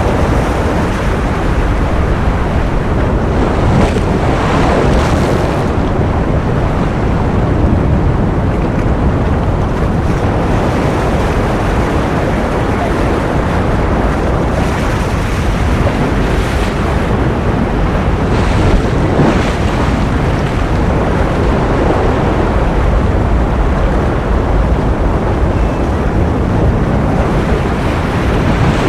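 Ocean surf: a steady, dense rush of waves, heaviest in the low end, with a brief brighter surge now and then as a wave breaks.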